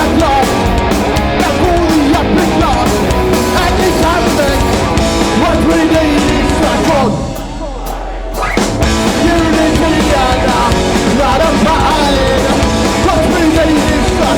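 Live Oi! punk band playing loud, with distorted guitars, drums and shouted-sung vocals. About halfway through the band stops for a moment and only a low bass note hangs, then everything crashes back in.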